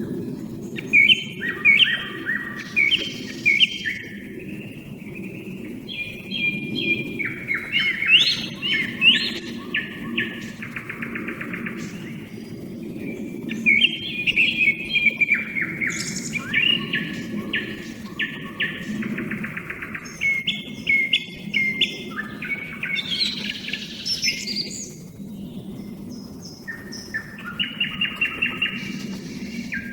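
A song thrush and a nightingale singing in a vocal duel: a run of loud phrases of repeated notes and fast rattling trills, one phrase after another with short gaps. Smaller birds such as tits call in the background.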